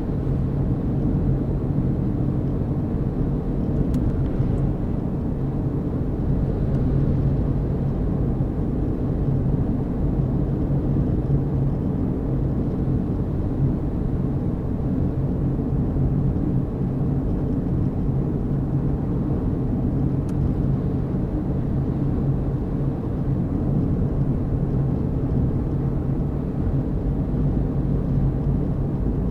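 A vehicle driving along at a steady speed: a constant low rumble of engine and road noise with a hum held at one pitch.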